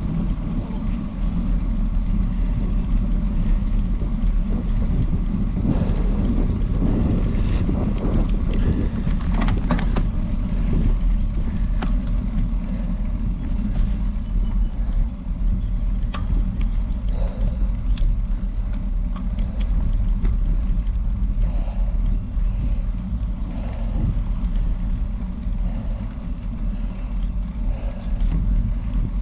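Steady low rumble of wind and road noise on the camera's microphone while riding a bicycle up a road climb, with a few faint clicks partway through.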